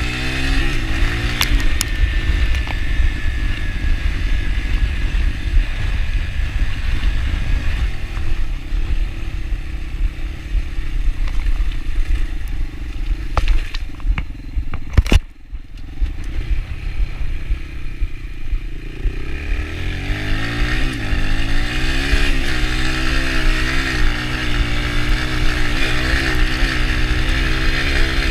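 Yamaha TT-R125 dirt bike's single-cylinder four-stroke engine running under riding, revs rising and falling. Around the middle the engine note drops away, with a sharp click, then picks up again a few seconds later with the revs wavering.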